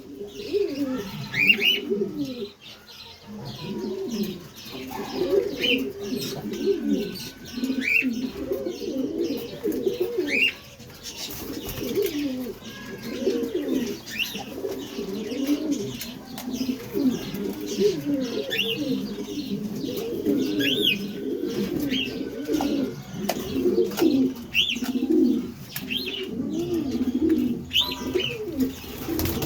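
Domestic pigeons cooing, several birds overlapping without a break, with short high chirps from other birds every couple of seconds.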